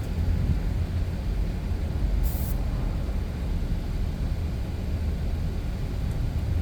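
Steady low rumble, with one short burst of spray-gun hiss about two seconds in as the final coat of vinyl finish goes onto the seat.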